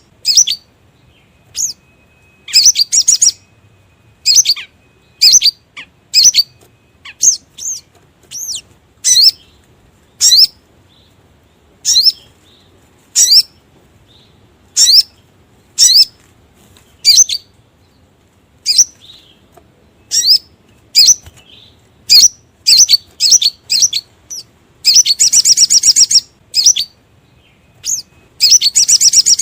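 Crimson sunbird (sogok ontong) lure-call recording. High, sharp chirps repeat roughly once a second, and a long rapid trill comes near the end.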